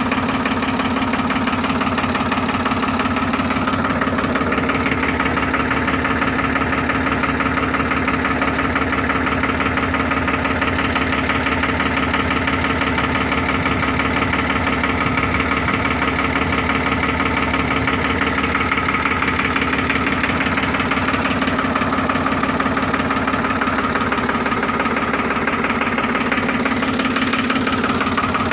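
Escort Powertrac 445 DS diesel tractor engine running steadily at an even speed.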